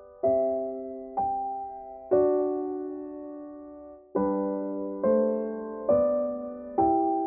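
Slow solo piano background music: chords struck roughly once a second, each left to ring and fade, with one longer held chord in the middle.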